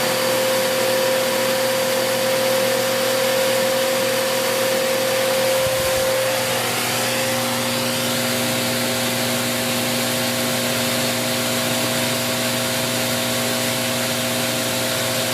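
Bissell Cleanview Plus 1900 W bagless vacuum cleaner running steadily at full power just after switch-on, a constant motor whine over rushing air, drawing about 1600 watts.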